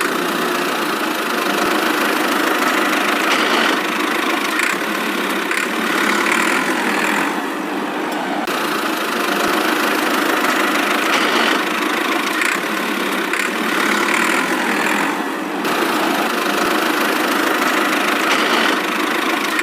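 Miniature DIY toy tractor running steadily, an engine-like drone with small swells and dips in level.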